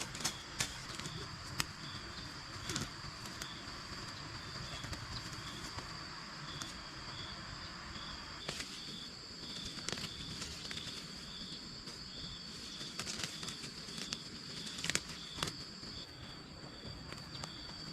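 Outdoor insect chorus: a steady high-pitched drone with a short chirp repeating a few times a second, and scattered sharp clicks or knocks.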